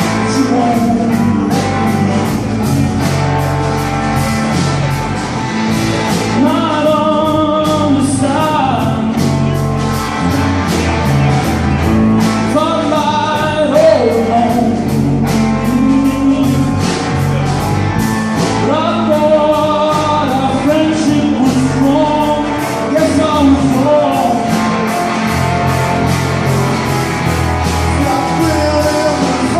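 Live blues-rock song: a man singing over guitar with a steady beat.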